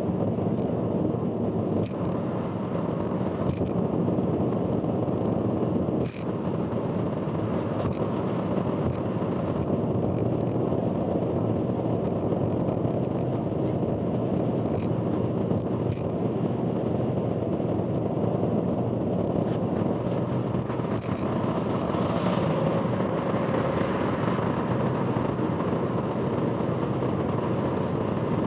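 Car driving on an expressway: a steady, dense rumble of road and running noise, with short sharp clicks or knocks every second or two.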